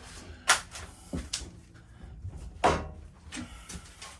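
Several sharp knocks and clunks of wooden interior cabinetry being handled and knocked about. The two loudest come about half a second in and just before three seconds in.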